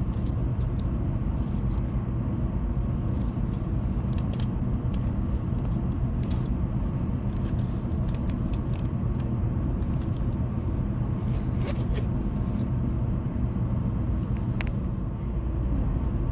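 Steady low rumble of a Shinkansen train running, heard from inside the passenger car, with scattered faint ticks.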